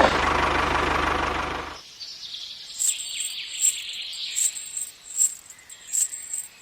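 A steady mechanical hum cuts off sharply about two seconds in. It leaves outdoor ambience with a high, faint chirp repeating about every 0.8 seconds.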